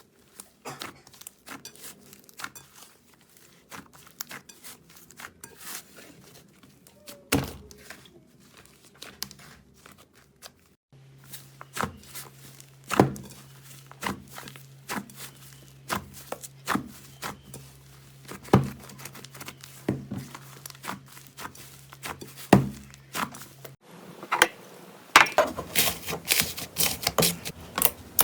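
Slime being pressed, stretched and poked by hand: irregular sticky clicks, pops and crackles. A steady low hum runs under the middle part, and the crackling gets busier and louder near the end.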